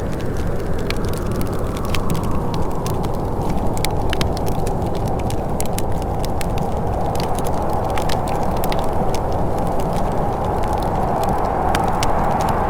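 Wood fire crackling, with many irregular sharp pops and snaps, over a steady low rushing noise that grows slightly brighter toward the end.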